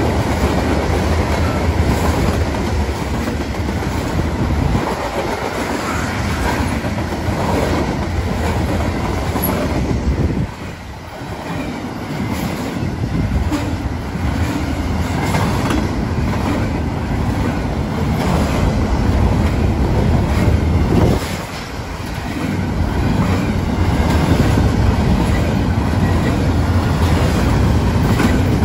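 A freight train's cars, tank cars and double-stack container cars, rolling past close by, steel wheels running loud and steady on the rails. The noise dips briefly twice, about ten and twenty-one seconds in.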